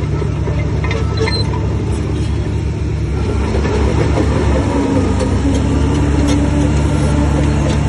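Bulldozer's heavy diesel engine running steadily, a little louder from about halfway in, with a few faint clicks over it.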